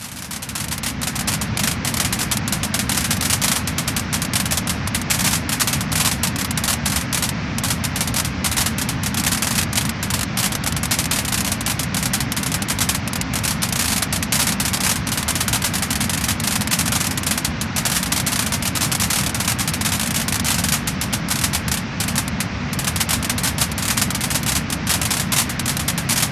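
Wood fire crackling and popping: a dense, irregular run of small sharp snaps over a steady rushing hiss. It swells back in over the first second.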